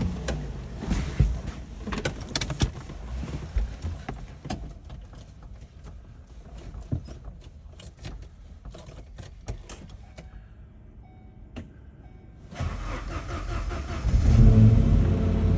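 Engine cold start: scattered clicks and knocks, then a low rumble starts about 12 seconds in, and the engine catches and runs loudly with a steady low note over the last second or two.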